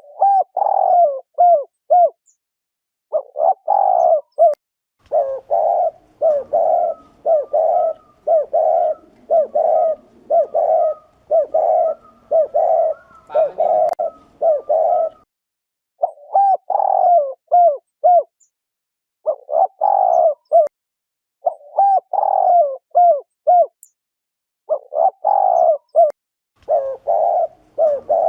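Spotted dove giving the rapid 'gù' bowing coo, the male's display call. Short coo notes come in quick runs of several at a time, separated by brief pauses, and run almost without a break from about five to fifteen seconds in.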